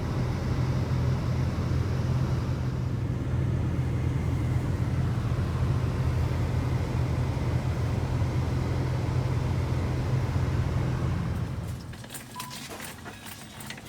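Steady low rumble of a Toyota 4Runner's engine and road noise heard inside the cabin while driving. About twelve seconds in the rumble drops away, and a few sharp clicks follow.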